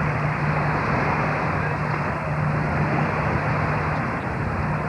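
A motor engine running steadily, a constant low drone under a rushing noise of wind or water.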